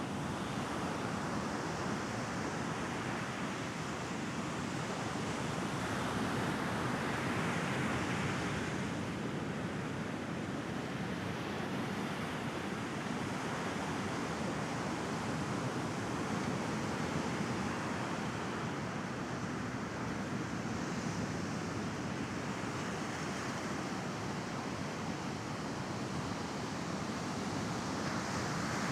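Mediterranean sea waves breaking and washing on the shore, an unbroken surf wash that swells about six seconds in and again near the end.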